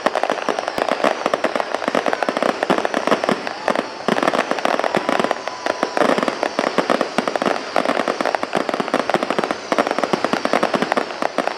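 Fireworks finale: a dense, unbroken barrage of rapid bangs and crackling, many reports a second.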